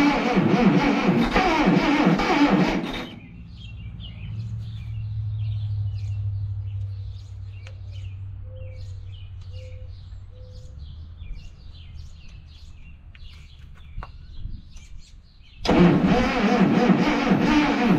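Birds chirping repeatedly over a low steady hum. Before and after, a much louder dense rhythmic sound starts and stops abruptly, about three seconds in and again near the end.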